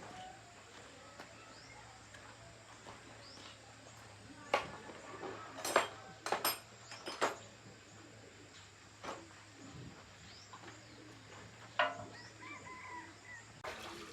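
Scattered sharp knocks and clinks, several a few seconds apart and loudest about six seconds in, over a low steady hum, with birds chirping faintly.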